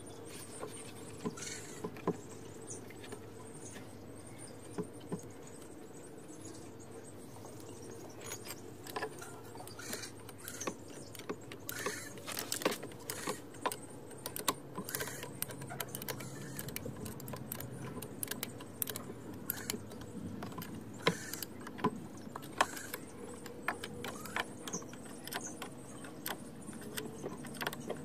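Irregular metallic clicks, taps and clinks of tools and small parts being handled while a power sprayer pump is reassembled, growing more frequent in the second half, over a steady low hum.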